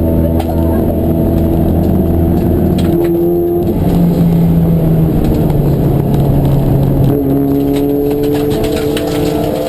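Race car engine running hard. Its pitch shifts in steps about three and a half and seven seconds in, then climbs steadily near the end.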